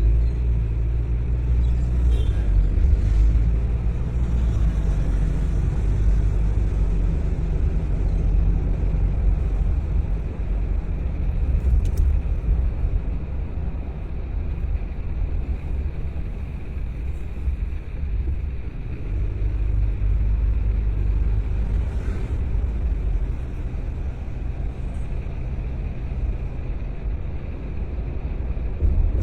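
A car driving along: steady low rumble of engine and tyres on the road, with a few faint clicks.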